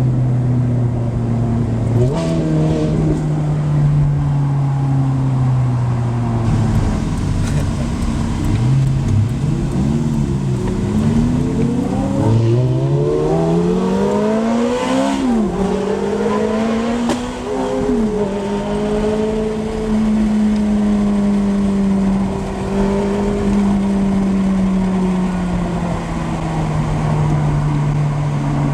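Car engine running with a deep, steady note, then revved in several quick rising sweeps around the middle, after which it settles to a higher, steady speed that eases down near the end.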